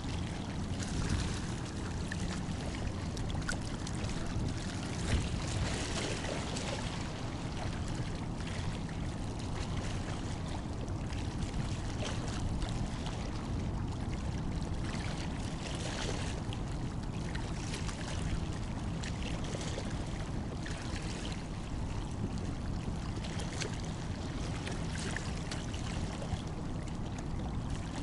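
Water lapping and sloshing against a stone breakwater in irregular splashes, over a steady low rumble.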